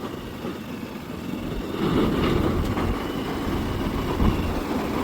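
A vehicle on the move: a steady rumble with a rushing noise that grows louder about two seconds in.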